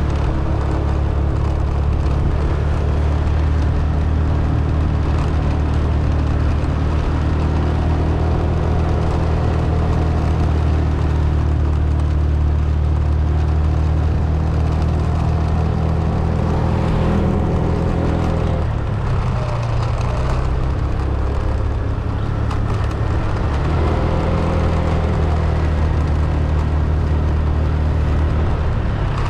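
Vehicle engine and road noise while driving: a steady low hum that dips and changes pitch about two-thirds of the way through, as at a gear change or slowing, then settles again.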